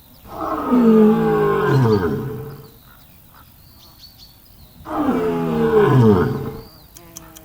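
Lion roaring twice, each roar about two seconds long and falling in pitch, with a short pause between.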